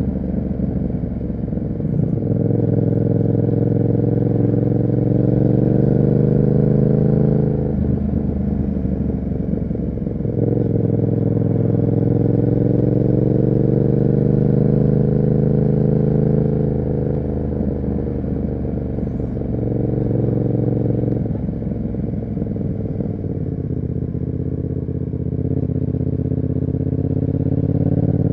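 Yamaha MT-07's parallel-twin engine through an SC Project aftermarket exhaust, pulling on the throttle. The pitch climbs slowly in two long pulls, the first ending about seven or eight seconds in; in the second half it settles to a lower, steadier cruise.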